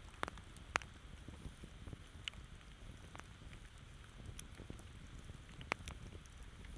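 Campfire crackling: scattered sharp pops and snaps over a low, steady rumble, with the loudest pops about a second in and near the end.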